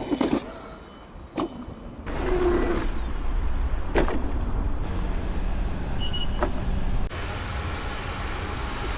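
Electric unicycle riding and jumping: wind rushing over the microphone, a few sharp thuds, and a faint high motor whine that glides up and down in pitch.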